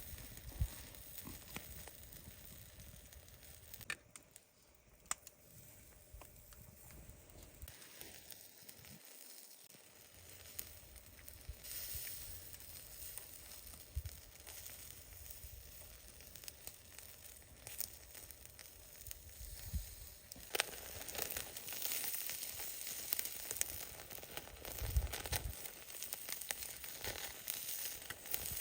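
Skewered food sizzling over charcoal on a shichirin grill, a steady hiss with scattered crackles and pops. The sizzle grows louder and fuller about twenty seconds in.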